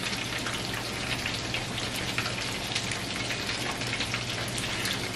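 Steady crackling sizzle and bubbling of food cooking in pans on a gas stove, as bowtie pasta in cream sauce is stirred with a spoon in an enameled cast-iron pan. A low steady hum runs underneath.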